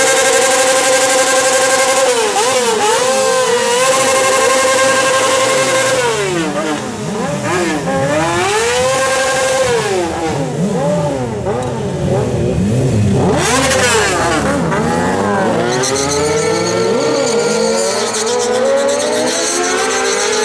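Several sport-bike engines revving: one held at high revs for the first few seconds, then repeated rising and falling revs from more than one bike overlapping.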